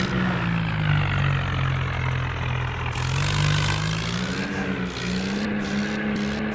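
Tractor engine running under varying throttle: its pitch sinks over the first few seconds, then rises again from about three seconds in.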